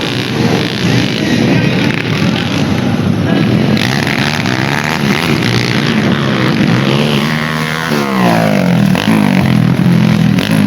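Motorcycle engines revving hard, their pitch climbing and falling as the bikes accelerate and back off. Partway through, two engine notes cross, one rising while another drops.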